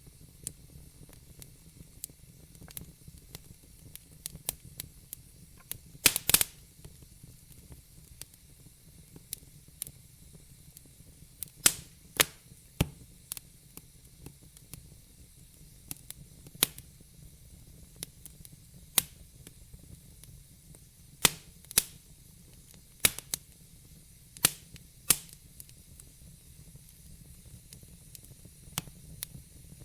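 Wood fire in a fireplace crackling: a low steady hiss with irregular sharp pops and snaps, a few of them much louder, like one about six seconds in and a cluster after twenty seconds.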